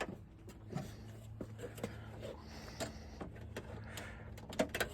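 Scattered light clicks and knocks from hands and tools working on a truck door's inner panel, a few seconds apart and loudest near the end, over a faint steady hum.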